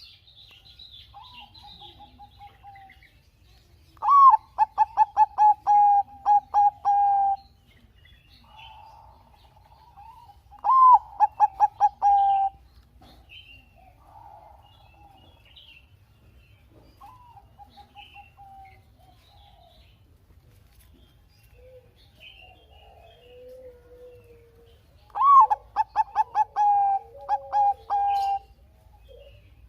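Zebra dove (perkutut, Bangkok type) cooing in three loud bouts. Each bout opens on a higher note and runs on as a quick string of staccato coos lasting two to three seconds, and softer coos come between the bouts. A lower, wavering coo joins near the end.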